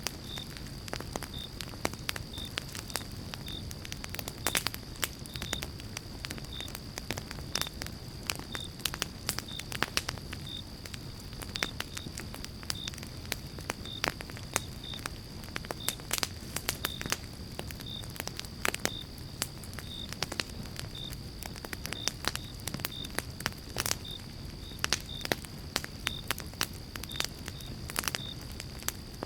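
Pine-log campfire crackling and popping, with sharp pops at irregular moments over a low, steady rumble of flame. A cricket chirps evenly, about one and a half chirps a second, under a steady high insect tone.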